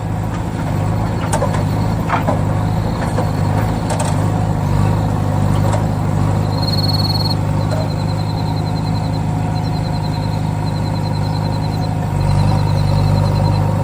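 A small motor of a DIY mini tractor model running steadily, swelling a little near the end, with a few sharp clicks in the first seconds and a faint, fast, high-pitched beeping pattern from about halfway through.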